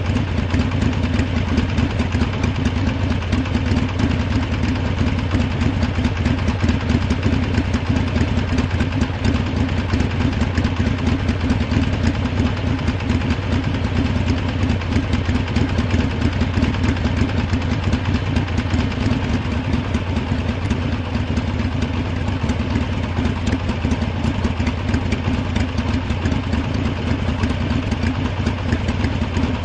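Harley-Davidson V-twin motorcycle engine idling steadily, with no revving.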